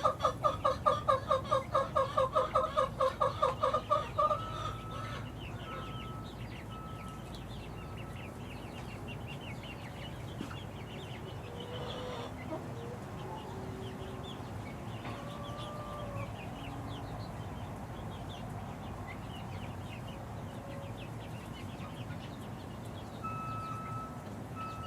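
Six-week-old chickens calling: a loud, fast run of repeated calls, about five or six a second, that stops about four seconds in, then softer scattered clucks and high peeps.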